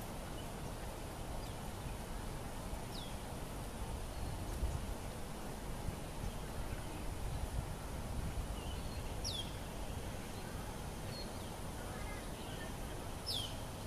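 Steady outdoor lakeside noise, with three short high bird chirps that drop in pitch, about three, nine and thirteen seconds in.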